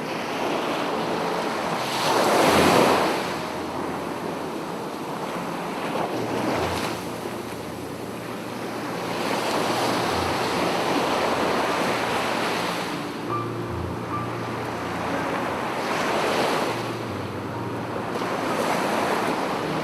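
Sea waves breaking and washing up on a beach, the surf swelling every few seconds, loudest about two and a half seconds in, with wind buffeting the microphone.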